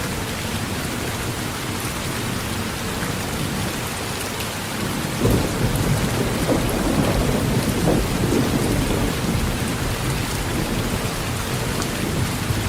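Steady heavy rain on a tin roof. About five seconds in, a thunderclap breaks in and rumbles for several seconds before fading back under the rain.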